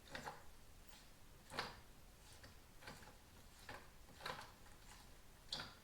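Faint ticking: a string of short, sharp clicks about every half second to a second, some louder than others.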